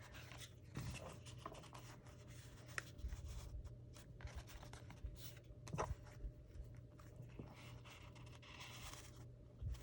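Paper tags being slid into the paper pockets of a journal page: faint rustling and scraping of paper on paper, with a few soft taps.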